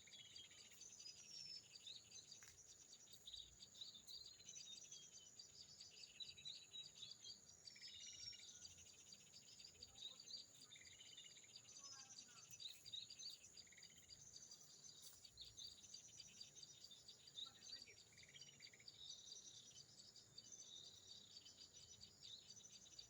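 Faint chirping and twittering of small birds, repeated short calls throughout, over a steady high-pitched insect drone.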